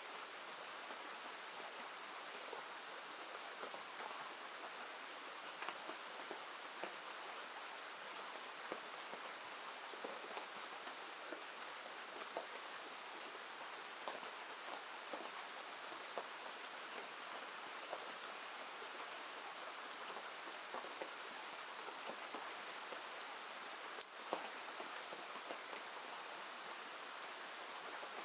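Steady rain falling, with many small scattered drop ticks over an even hiss. A single sharp click stands out about 24 seconds in.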